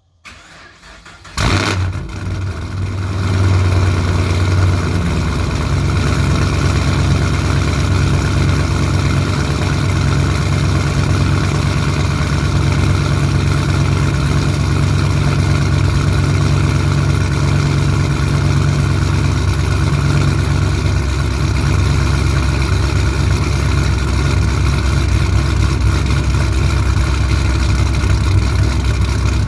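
Cammed LS3 6.2-litre V8 of a 2009 Pontiac G8 GXP cold-starting through long-tube headers, an X-pipe and a 3-inch exhaust: the starter cranks for about a second, the engine catches with a sudden loud burst, then runs at a high idle that drops a few seconds in and settles into a steady, crazy loud idle.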